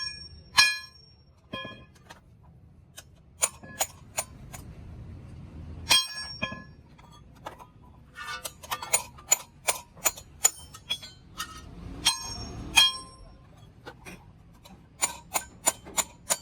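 Hammer blows on sheet metal: sharp, irregular strikes, each with a short metallic ring, coming thick and fast in the middle.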